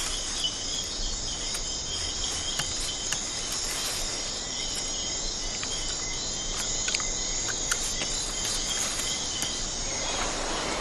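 Tropical forest insect chorus at night: crickets and other insects trilling steadily in several high pitched bands, with scattered short sharp clicks. A broad rushing noise comes in near the end.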